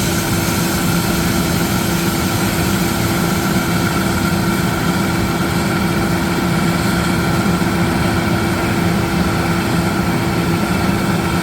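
Combine harvester's engine running at a steady speed, a constant drone with a few held tones.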